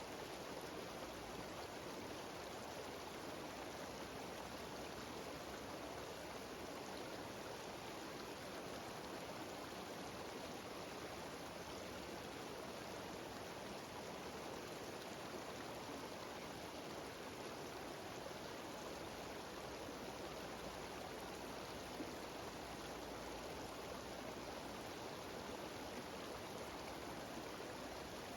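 Cascading mountain waterfall and stream, a steady unbroken rush of water over rocks.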